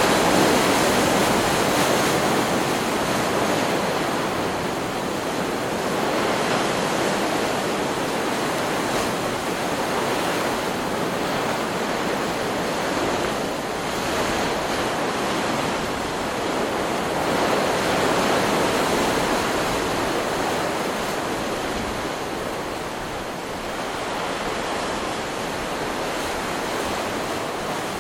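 Stock recording of ocean surf: waves breaking and washing on a beach in a continuous rush that swells and eases gently over several seconds.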